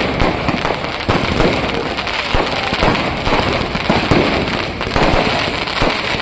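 Fireworks going off in a rapid, unbroken barrage of bangs and crackling, many reports a second with no pause.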